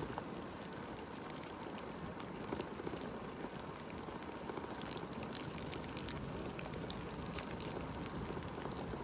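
Steady rushing of the rain-swollen Sand Run creek, very loud water after heavy rain, with light ticks from about five seconds in.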